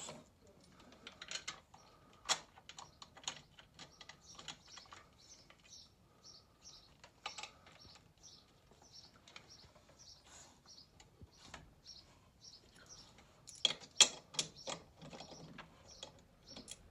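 Irregular light clicks and knocks of metal parts and hand tools being handled, with a louder flurry of knocks near the end. Faint high chirps, like a small bird, repeat through the middle.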